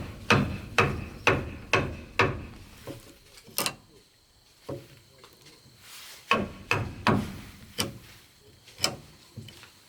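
Hammer strikes on wood, about two a second at first, then a short pause and more irregular blows, some with a slight ring.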